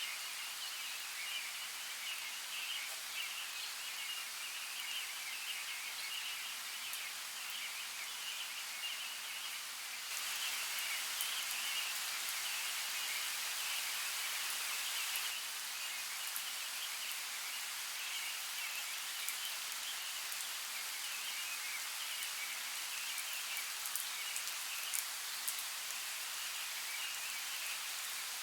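Forest water ambience: a steady hiss of running creek water with fine drip-like ticks over a constant high shimmering band. The wash grows a little louder about ten seconds in and settles back around fifteen seconds.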